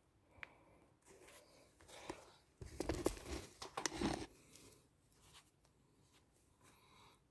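Faint handling noises: rustling and scraping with a few small clicks, and a louder stretch of scraping and rustling about three to four seconds in.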